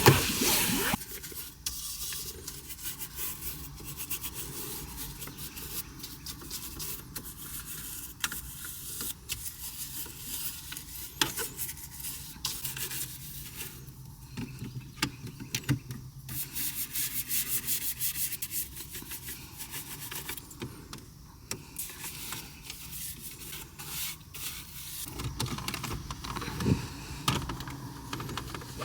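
Detailing brush scrubbing a car's plastic dashboard with cleaner, a scratchy rubbing in many quick, irregular strokes.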